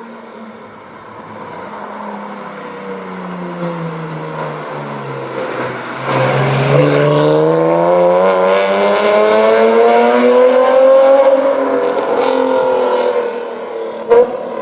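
BMW E46 coupe's straight-six engine through a straight-piped exhaust with header and no catalytic converters. It runs with falling revs for several seconds, then gets much louder about halfway through as it accelerates hard, pitch climbing steadily. It eases off near the end with one sharp bang.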